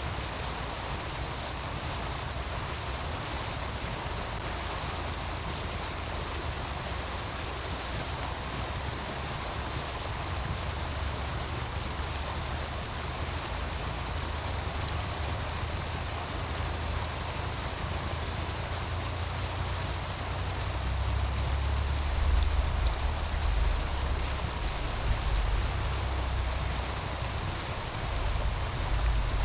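Wood fire crackling with sparse sharp pops over the steady rushing hiss of a meltwater stream. About two-thirds of the way in, a low, gusty rumble of wind on the microphone swells up and becomes the loudest sound.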